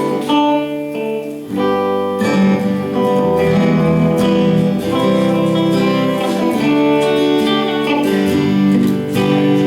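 Acoustic guitar strumming sustained chords, changing chord every second or two.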